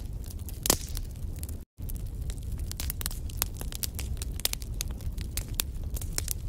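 Wood fire crackling, with frequent small pops and snaps over a low steady rumble and one louder pop just under a second in. The sound cuts out completely for a split second shortly after.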